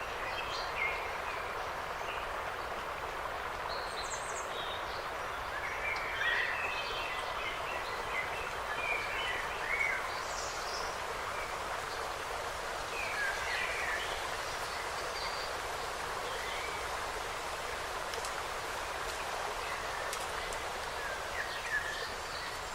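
Small songbirds chirping and twittering in short, scattered calls, busiest in the middle stretch, over a steady rushing background noise.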